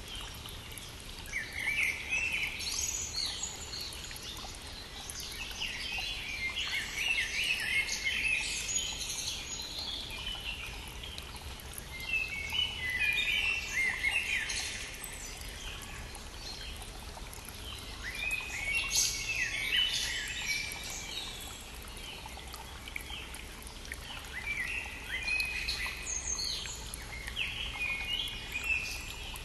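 Spring birdsong: songbirds sing phrases of two to three seconds each, recurring about every five to six seconds, over the steady rush of a brook.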